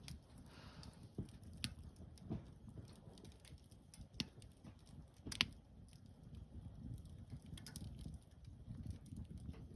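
Wood campfire crackling: scattered sharp pops, the loudest about five and a half seconds in, over a low steady rumble.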